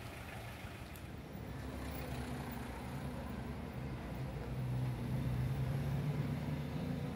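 A motor vehicle engine running with a steady low hum, getting louder about halfway through, over street noise.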